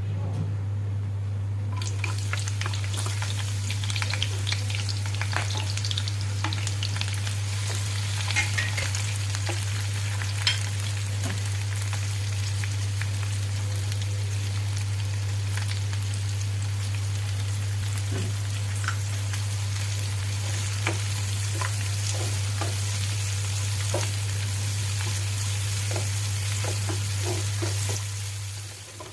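Food sizzling in hot oil in a pan, picking up about two seconds in, while it is stirred, the utensil clicking against the pan now and then. A steady low hum runs underneath.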